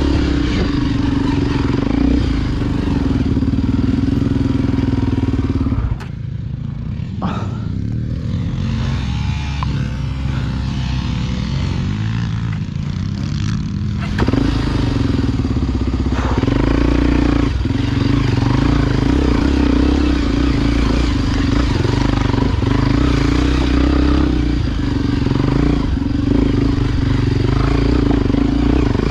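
Honda XR Tornado enduro motorcycle's single-cylinder four-stroke engine, bored out to 293 cc, running under way on a dirt trail. About six seconds in the engine note drops off for several seconds, as when coasting off the throttle, then comes back on power. A few knocks and rattles are heard along the way.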